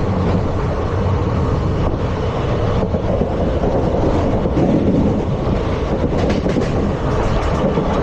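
ICF passenger coaches running along the track: a steady rumble of wheels on rail, with a few faint clicks.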